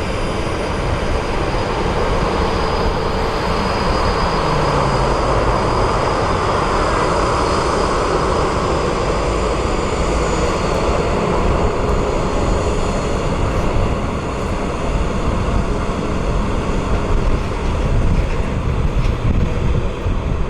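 Jet airliner engines at high power, a loud steady roar with a thin high whine over it, and a low tone that falls in pitch about four seconds in.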